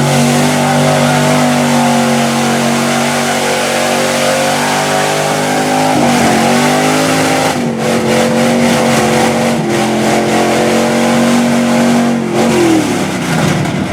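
Mud bog truck's engine held at high revs, dipping and recovering about six seconds in, then winding down near the end.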